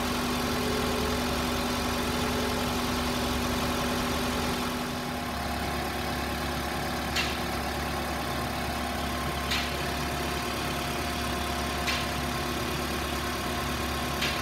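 Toyota RAV4's 2.0-litre 1AZ-FE four-cylinder engine idling steadily with a blown head gasket; its low hum shifts slightly about five seconds in. From about halfway, a short sharp click comes roughly every two and a half seconds, four in all.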